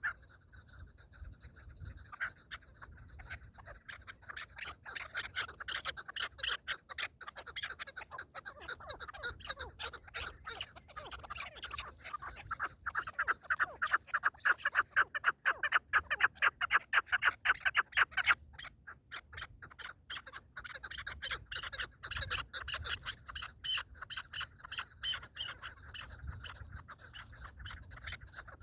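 Partridge calling: a long run of rapid, repeated clucking calls, loudest in the middle and dropping off sharply at about two-thirds of the way through, then going on more softly.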